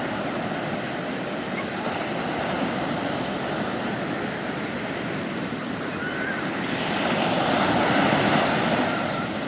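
Sea waves washing onto a beach: a steady rush of surf, with one wave swelling louder about seven seconds in and falling back near the end.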